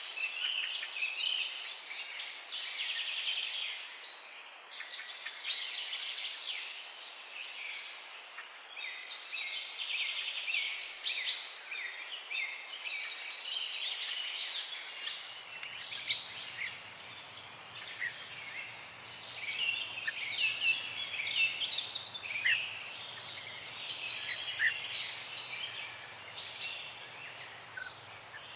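Several small birds chirping and trilling in a morning dawn chorus, with many overlapping high, quick notes and a few sharp repeated calls. A faint steady low hum comes in about halfway through.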